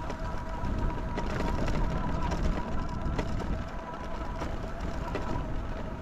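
Electric bike motor whining steadily under way, over tyre and wind rumble, with occasional clicks and rattles from the bike over rough ground.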